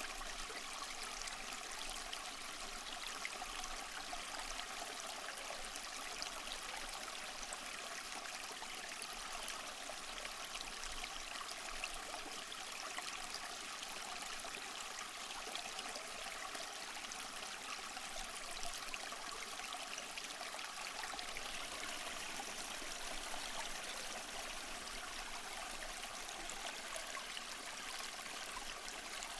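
Small waterfall trickling and splashing over mossy rocks: a steady rush of falling water with fine splashing detail.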